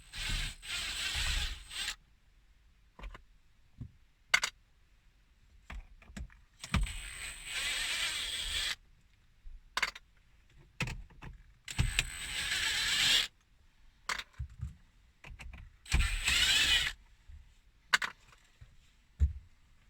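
Battery-powered screwdriver running in four short runs of one to two seconds each, backing out the four screws that hold a car's head unit in the dash, with small clicks of screws and trim being handled between runs.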